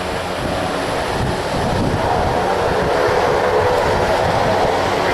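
Airliner engines running, a steady rumble with a whining hum that comes in about two seconds in and slowly grows louder.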